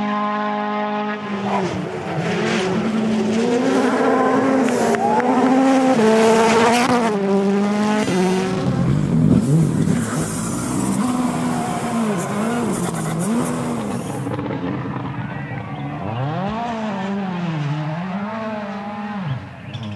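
Rally car engine revving hard: its pitch climbs and drops sharply at each gear change, then rises and falls repeatedly near the end as the throttle is worked on and off.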